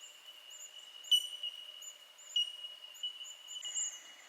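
Bell miners (bellbirds) giving their ringing 'tink' calls, blending into a steady high ping, with many short, very high chirps over it from red-browed finches.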